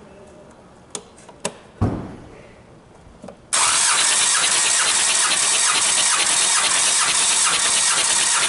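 A few clicks and a thump, then the starter motor cranks the Kia D4CB 2.5-litre four-cylinder diesel engine with a steady rhythmic pulsing. This is the engine being turned over for a compression test.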